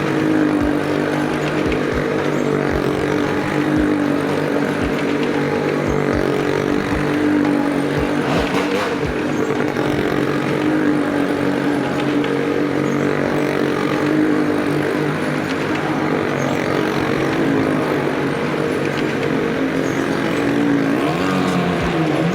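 Engines of vehicles circling the wall of a Well of Death pit, running at a steady, held speed. Near the end the engine pitches shift and glide.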